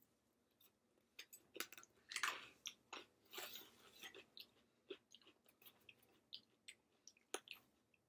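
A person chewing a mouthful of dressed lettuce salad close to the microphone: faint, irregular crisp crunches.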